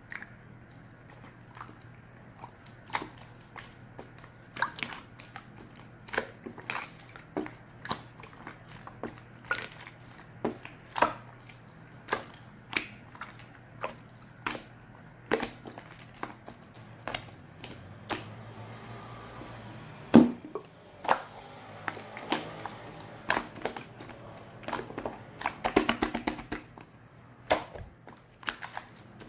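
Slime being pressed and worked by hand, giving irregular sharp clicks and pops about one a second, with a quick run of pops near the end. A faint steady hum lies underneath.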